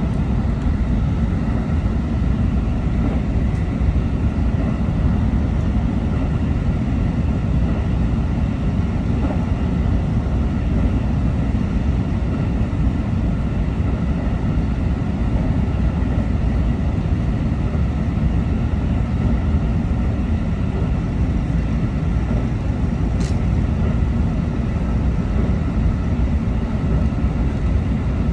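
Electric train running along the line, heard inside the front car: a steady low rumble of wheels on rail and running gear, with a faint steady whine above it. A single brief click comes about 23 seconds in.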